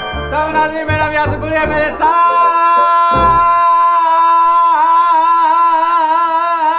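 Upbeat intro music with a beat, then, about two seconds in, a man sings one long held note that starts to waver with vibrato about halfway through.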